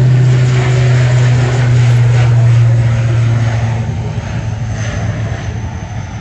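Turboprop airliner at takeoff power, its propellers making a steady low drone. It is loudest over the first three seconds, then fades as the aircraft moves away.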